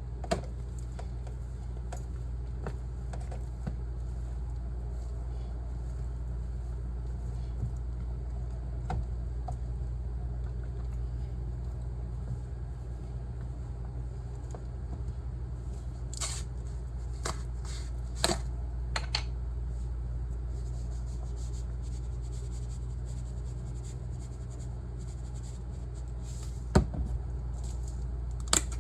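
Potatoes being mashed in a dish: scattered clicks and scrapes of the utensil against the dish, with a sharp knock near the end, over a steady low hum.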